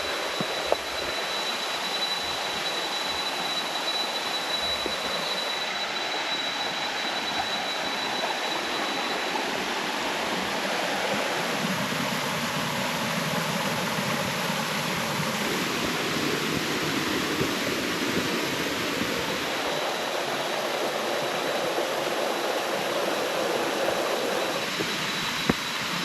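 Waterfall cascade rushing steadily. A thin, steady high-pitched whine rides over it for the first third and comes back near the end.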